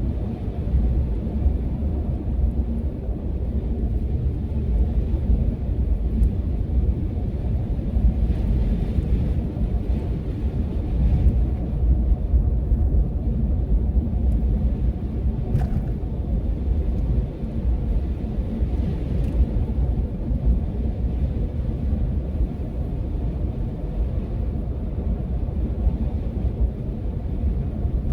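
A steady, loud low rumble with no clear tone or rhythm.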